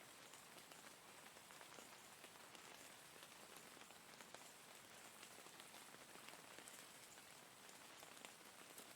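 Steady, faint rain: an even hiss with many small drop ticks scattered through it.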